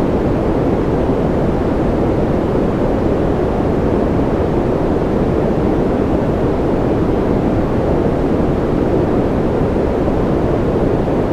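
Steady, unchanging noise for sleep or concentration, deep rather than hissy, with most of its weight in the low end and no drops, tones or events.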